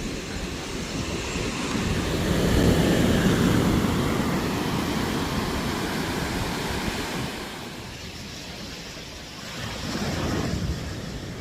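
Ocean surf breaking on a beach: one wave swells to its loudest about two to four seconds in and washes away, then a smaller wave breaks near the end.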